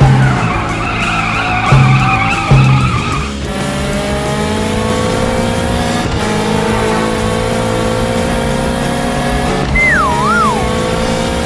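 Cartoon soundtrack: a sports car's engine sound effect running over background music. There are a few short loud hits in the first three seconds and a wavy, falling tone near the end.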